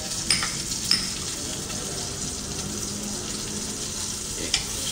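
Salmon fillet frying in butter in a frying pan: a steady sizzle with a few sharp clicks, about a third of a second, a second and four and a half seconds in.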